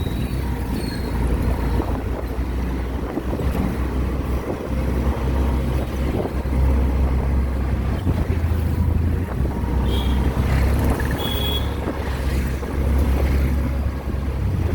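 Auto-rickshaw engine running under way with a steady low rumble.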